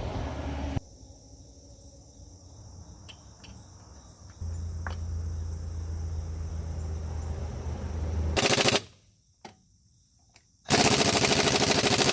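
Power impact wrench rattling on the truck's wheel lug nuts: a short burst, then a longer run of rapid hammering near the end. A low steady hum comes before the bursts.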